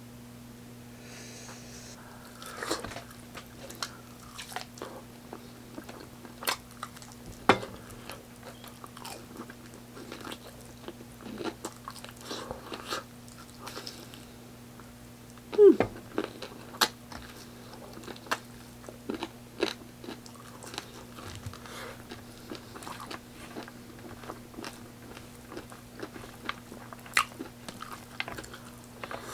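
A person eating fried chicken up close, with irregular crunchy bites, chewing and wet mouth clicks; the loudest bite comes about halfway through. A steady low electrical hum runs underneath.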